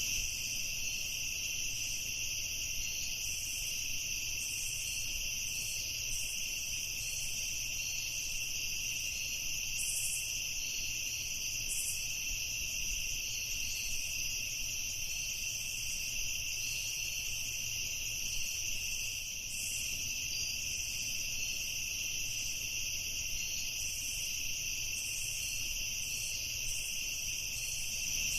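Night insects, crickets, in a steady chorus of high continuous trilling, with a faint low background hum.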